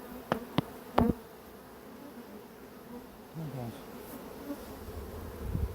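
Honeybees buzzing around an open hive, with three sharp clicks in the first second. Near the end, distant thunder starts rumbling low.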